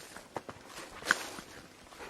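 Footsteps: a few irregular steps, the loudest a sharp scuff a little after a second in.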